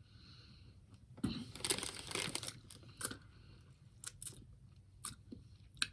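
Quiet eating and handling sounds of a chocolate-coated Magnum ice cream bar: a burst of crinkling about a second in, then a few scattered small clicks.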